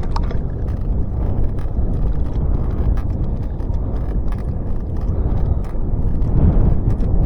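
Bicycle being ridden: a steady low rumble of wind and rolling tyres, with scattered light clicks and rattles. A short squeak from the worn, squeaky pedal comes just after the start.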